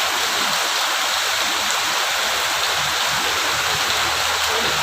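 Steady heavy rain falling, a loud, even hiss with no let-up.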